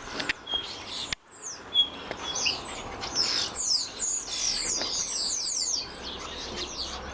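A flock of small garden birds chirping and twittering, many quick high chirps overlapping, busiest near the middle, with a brief dropout about a second in.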